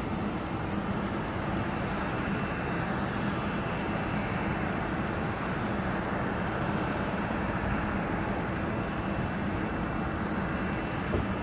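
Airplane engine noise from an aircraft at the airport: a steady rushing roar with a faint high whine, swelling slightly in the middle.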